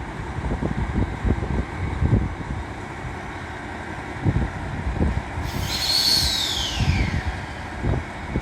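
Strong wind buffeting the microphone in gusts. About five and a half seconds in, a high whistle-like tone sounds for about a second and a half, gliding steadily down in pitch.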